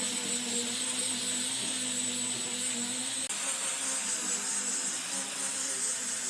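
A motorised tool running steadily with a hiss and a steady whine, briefly broken about three seconds in.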